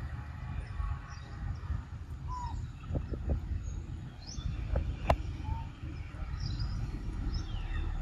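Birds chirping with short, falling calls over a steady low rumble, with a few sharp clicks about three and five seconds in.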